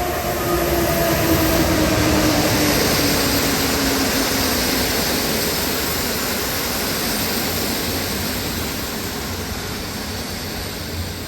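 EU160 electric locomotive hauling a passenger train past: a steady rush of wheels on rail with a whine that slowly falls in pitch, loudest about two seconds in and then fading gradually.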